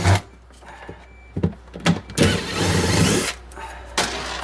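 Cordless drill/driver running in short bursts, the longest about a second, backing out the screws of a refrigerator's interior panel.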